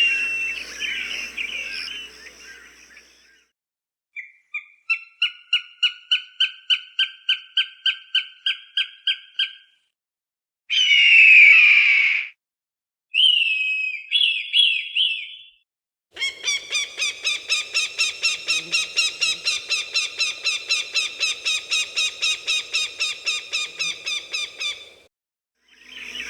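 Falcon calls. A call fades out at the start, then comes a run of rapid, repeated 'kek' notes at about four a second, a single harsh scream, a few short notes, and a long run of fast repeated notes at about five a second.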